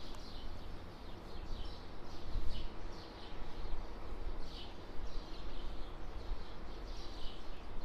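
Faint bird chirps repeating every second or so over a low steady hum.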